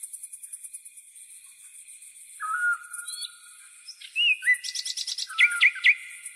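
Birdsong: several whistled, gliding calls and quick trills, busiest and loudest about four to six seconds in, over a steady, fast, high-pitched pulsing in the background.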